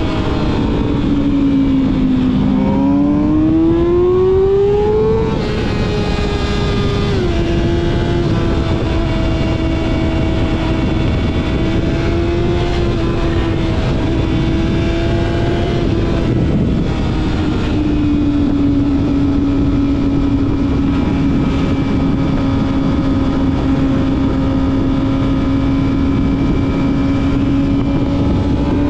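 Yamaha YZF-R6 inline-four engine through a full-system exhaust, heard from on the bike. The revs fall, then rise under acceleration for a couple of seconds until a gear change about five seconds in. After that the engine holds fairly steady cruising revs, eases to a lower steady note just past halfway, and starts rising again at the very end.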